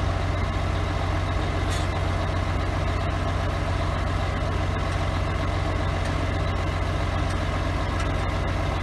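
1976 Mack DM868 roll-off truck's diesel engine idling steadily with a deep, even rumble.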